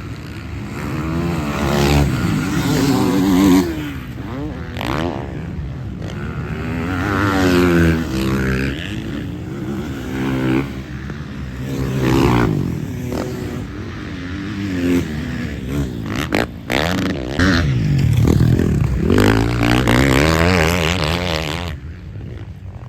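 Motocross bikes racing by, engines revving hard with the pitch climbing and falling again and again as the riders work the throttle and shift gears.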